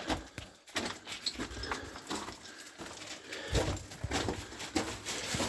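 Footsteps and scuffing on loose rock and gravel, a run of irregular knocks and scrapes with a few louder knocks, about three and a half seconds in and near the end.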